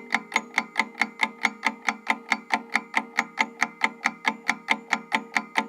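Countdown-timer sound effect: a fast, even clock-like ticking, about five ticks a second, marking the thinking time after a quiz question.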